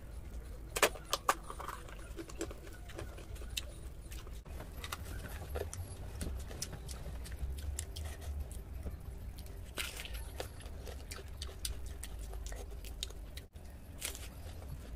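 Close-miked crunching and chewing of a crisp fried daal kachori, with sharp crackles of the flaky pastry shell as it is broken and bitten, loudest about a second in. A steady low hum lies underneath.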